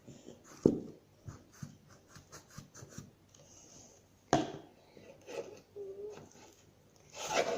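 Slime being worked by hand: irregular scraping, rubbing and light tapping, with two sharper knocks, one near the start and one about halfway through.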